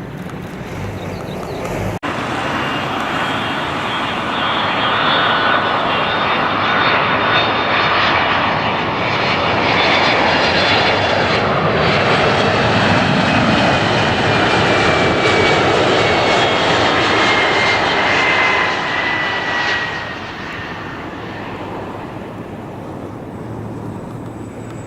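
Engines of a passenger airliner going past. The noise swells over the first few seconds and stays loud for a long stretch. A high whine slowly falls in pitch as the plane moves away, and the sound drops off sharply about three quarters of the way through.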